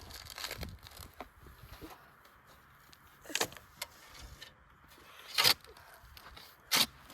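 A shovel scraping into dirt, a few short sharp scrapes in the second half, the loudest about five and a half seconds in.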